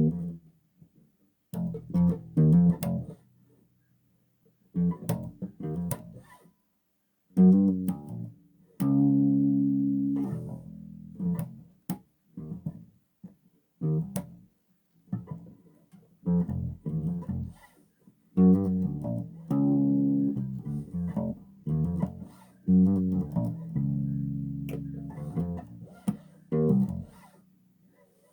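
Bass guitar played solo: plucked notes and short phrases with pauses between them, some notes left ringing for a second or two.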